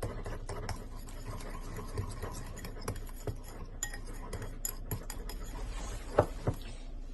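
Kitchen utensils lightly clinking and tapping against a bowl and dishes: many small irregular clicks, with two louder knocks about six seconds in.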